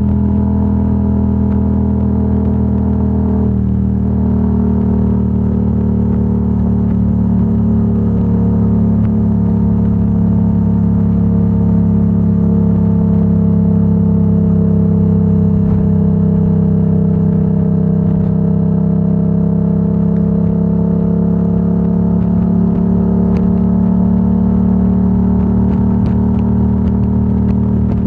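Yamaha R7's parallel-twin engine running through a Yoshimura AT2 full exhaust at a steady cruise, its pitch easing down slightly and then climbing again.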